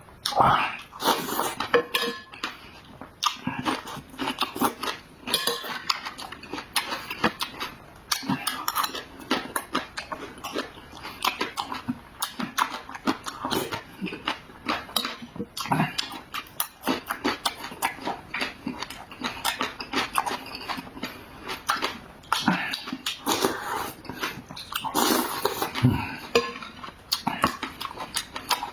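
Close-miked mukbang eating sounds: wet chewing, smacking and mouth clicks in a dense, irregular run, with occasional clinks of utensils against dishes.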